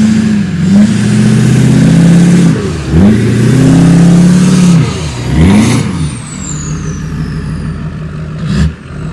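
Lifted Duramax 6.6-litre V8 turbodiesel pickup revved hard three times while stuck in soft sand, each rev falling off before the next, then settling to a steadier lower run. A high turbo whistle slides down in pitch, and there is a short sharp knock near the end.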